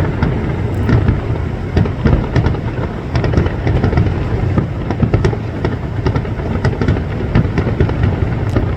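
Fireworks display going off: a dense run of sharp cracks and pops over a continuous low rumble of booms.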